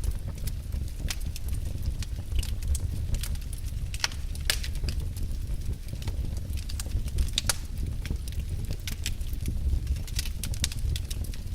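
Wood fire in a fireplace crackling: irregular sharp pops and snaps, a few louder ones about four and a half and seven and a half seconds in, over a low steady rumble of the flames.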